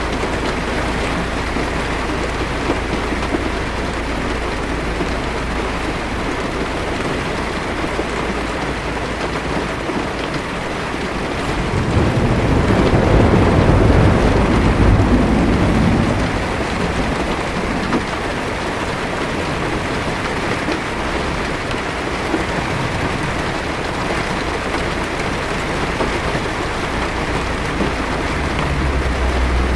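Steady heavy rain hitting a car's windshield and roof. A low rumble of thunder swells for about four seconds near the middle, and a fainter rumble comes near the end.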